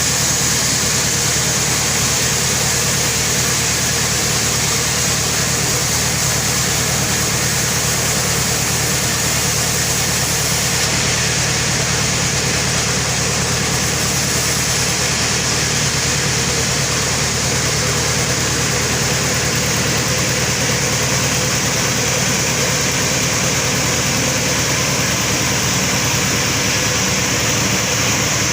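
Sawmill machinery running steadily: a constant low engine-like hum with a strong high hiss over it, unchanging throughout.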